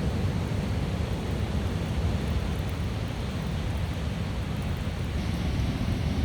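Steady ocean surf washing on the beach, with wind rumbling on the microphone.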